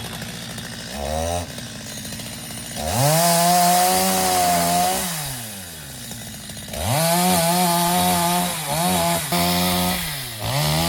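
Two-stroke chainsaw engine revving in bursts: a short blip about a second in, then two long runs held at high speed with brief dips, falling back to idle between them and picking up again near the end.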